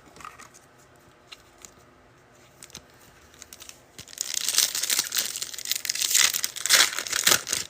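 A foil trading-card pack wrapper being torn open and crinkled. After a few quiet seconds with small clicks, loud crackling starts about halfway through and runs for about three seconds.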